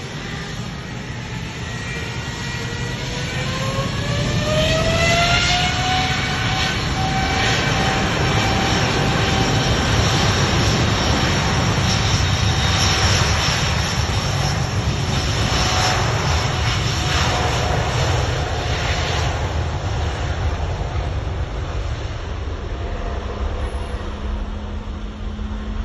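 Airbus A330-941 (A330neo) jet airliner taking off on its Rolls-Royce Trent 7000 engines. A rising whine builds over the first few seconds as the engines spool up to takeoff thrust, then settles into a loud steady roar that fades over the last several seconds.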